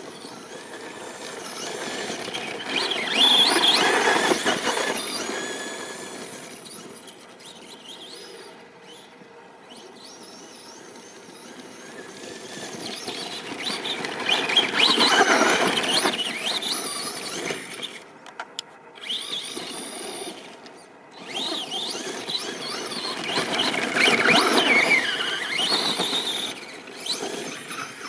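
Brushless electric motor of a Traxxas Bigfoot RC monster truck (Hobbywing 3652SL 4000KV on a 2S LiPo) whining, rising and falling in pitch as the truck speeds up, slows and passes close three times.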